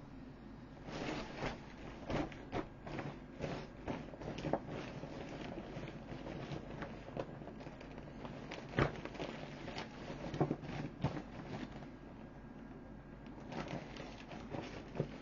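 Irregular crackling and rustling of thin vinyl plastic being handled and crumpled, with one sharper click about nine seconds in.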